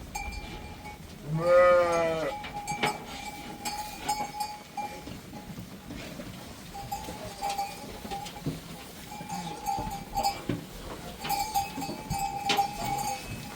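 Livestock bells ringing and clinking on a flock, with one loud bleat about a second and a half in.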